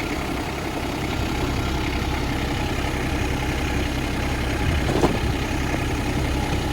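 Cat 301.7D CR mini excavator's diesel engine idling steadily, just started after a hydraulic oil and filter change. A single sharp click about five seconds in.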